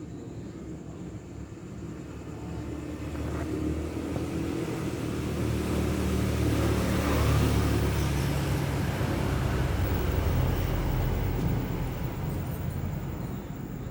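A motor vehicle passing by: its engine and road noise grow over several seconds, peak about halfway through, then slowly fade.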